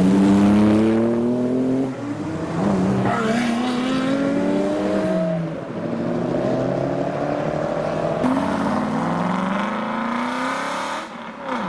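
Cars accelerating away past the roadside one after another, engine notes rising in pitch in three long pulls with brief dips between them. The first and loudest is a classic Aston Martin DB4's straight-six pulling past close by.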